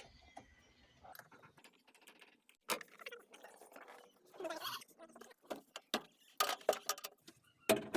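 Irregular light clicks, clinks and short rattles of hand tools and metal parts being handled, with a denser run of clicks towards the end.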